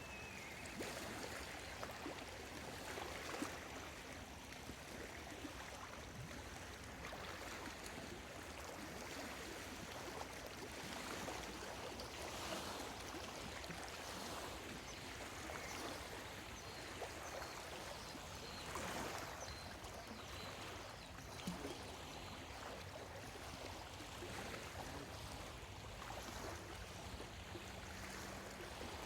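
Small lake waves lapping at the shore, a soft wash that swells and falls back every second or two.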